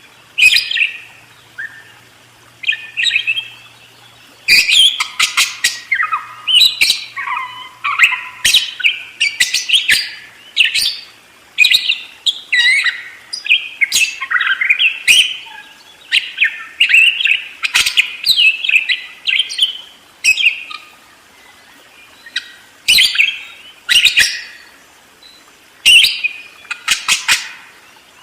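Budgerigars (parakeets) chattering and warbling in quick runs of chirps, with short pauses between the runs.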